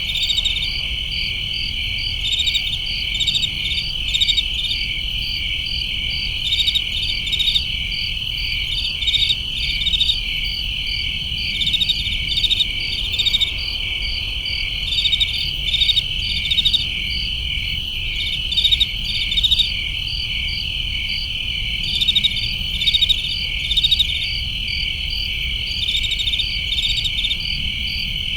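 A chorus of crickets and other summer insects chirping: a steady high trill throughout, with clusters of rapid pulsed chirps from another insect breaking in every few seconds over a faint low rumble.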